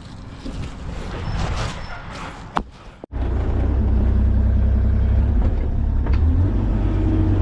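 Scattered knocks and scrapes, then after an abrupt cut about three seconds in, the engine of an excavation machine running loud and steady.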